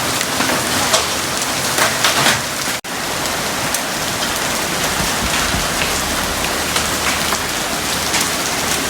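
Small hailstones and heavy rain falling on surfaces: a dense, steady hiss with scattered sharp ticks of ice striking. The sound briefly cuts out just before three seconds in.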